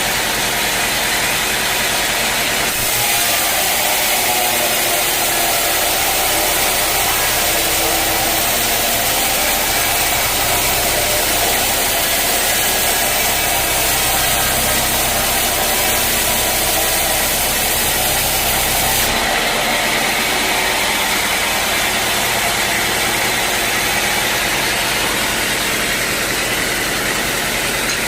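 Band sawmill running steadily while sawing a teak log. A brighter hiss joins the machine noise about three seconds in and drops away after about sixteen seconds.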